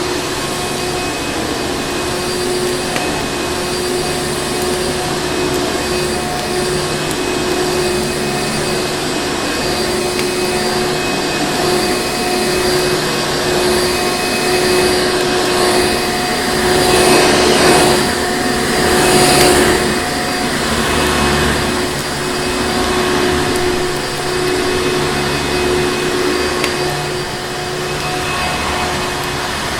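Vacuum cleaner running steadily, a motor whine over rushing air, swelling louder twice around the middle.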